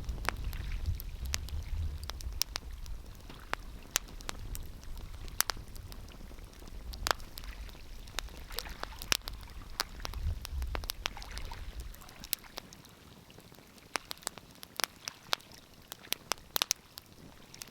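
Wood fire crackling, with irregular sharp pops and snaps. A low rumble underneath stops abruptly about two-thirds of the way through.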